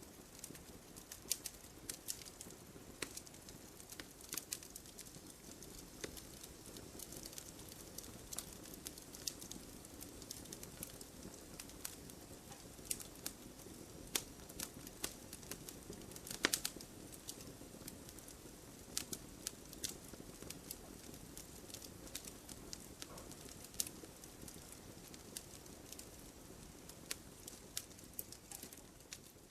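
Wood fire burning in a fireplace, crackling: irregular sharp pops and snaps over a faint steady hiss, with a louder snap a little past halfway.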